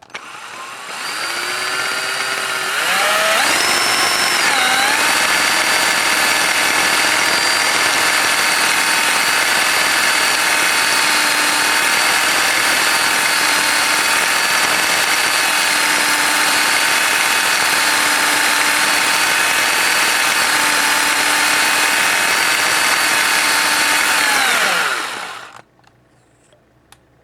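Electric drill spinning a nylon crown enhancer bit with lapping compound in an airsoft barrel's muzzle. The whine rises over the first few seconds, holds steady for about twenty seconds, then winds down and stops near the end.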